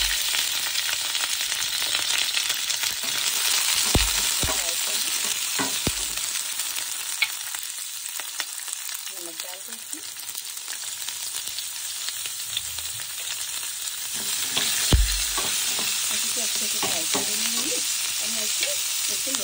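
Chopped raw amla (Indian gooseberry) sizzling as it fries in hot oil with dry red chillies, green chillies and whole spices, being stirred in the pan. A few dull knocks come through, one about four seconds in, another around six seconds and a last one near fifteen seconds.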